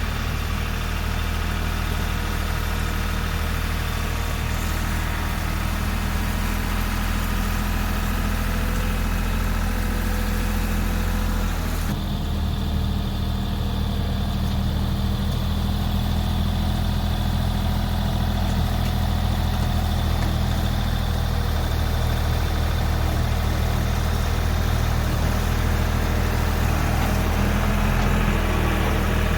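Kioti CK3510 compact tractor's three-cylinder diesel engine running steadily, as heard while the tractor works. The sound changes abruptly about twelve seconds in, losing some of its higher noise.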